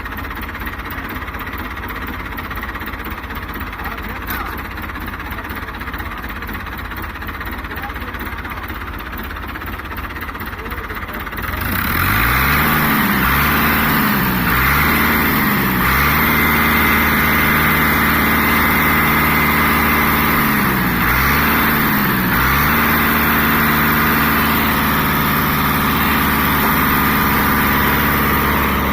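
Tractor diesel engine running steadily. About twelve seconds in it gets louder, and its pitch swings up and down several times before holding at a higher, steady speed.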